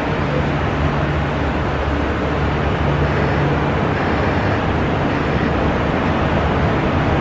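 Jet airliner engines running, a steady rushing noise with a low hum underneath.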